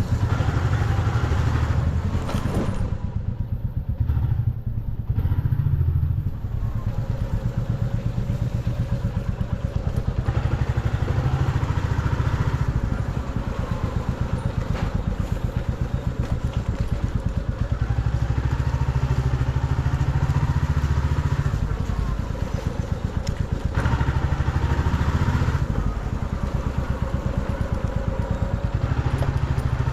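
Motorcycle engine running under way, a steady low chug whose level swells and eases a few times as the throttle and speed change.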